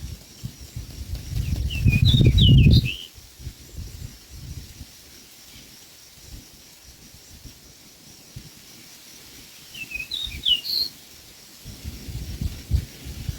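A small bird chirping in two short clusters of quick high calls, about eight seconds apart, over a low rumbling noise at the start and near the end.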